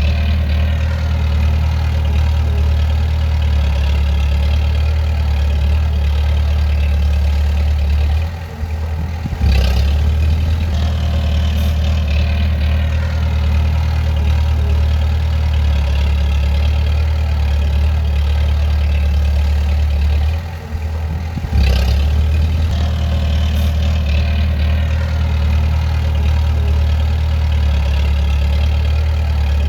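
Bulldozer's diesel engine running steadily with a strong low hum. Twice the sound drops away for about a second, then comes back abruptly with a sharp click.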